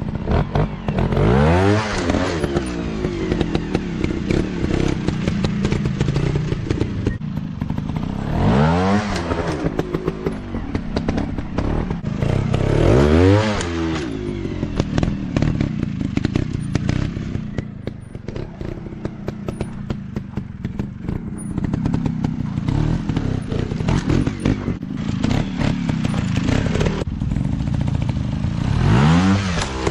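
Dirt bike engines running, revved hard four times, each rev climbing sharply in pitch and dropping back, with clatter and thuds between revs.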